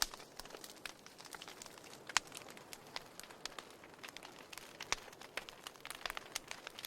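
Wood fire burning, the firewood crackling with frequent irregular sharp pops over a soft hiss; the loudest pops come about two and five seconds in.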